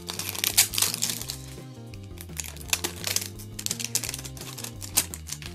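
Cellophane wrap crinkling and crackling in irregular bursts as it is peeled off a plastic surprise egg, over background music.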